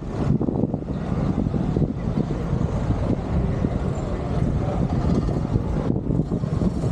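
Steady engine and road noise of a moving vehicle, running without a break.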